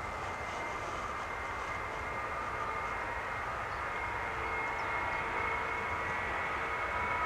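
Airbus A310-300F freighter's jet engines running: a steady whine over a broad rush, growing slowly louder and slightly higher in pitch toward the end.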